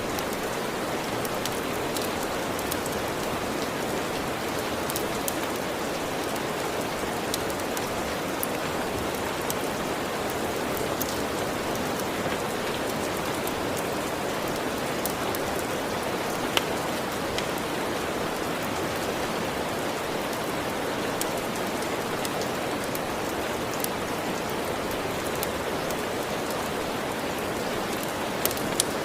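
Steady rain falling, an even hiss with scattered sharp ticks, a few louder ones near the end.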